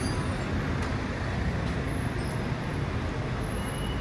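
City street in the rain: a steady hiss of rain and wet road with a low rumble of traffic underneath.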